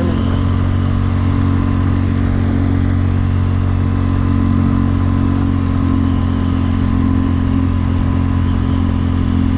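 Kymco People 250 scooter's single-cylinder four-stroke engine running at a steady speed on the road, its exhaust leaks sealed with high-heat JB Weld epoxy.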